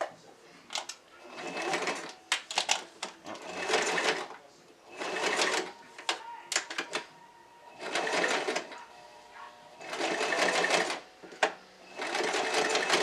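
Sewing machine stitching hair tracks onto a wig cap in about six short runs of a second or two each, stopping and starting between them. A few sharp clicks fall in the pauses.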